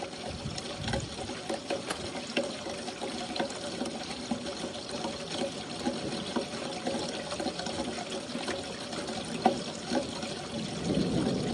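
Steady rain falling and splashing, with many small scattered drop hits.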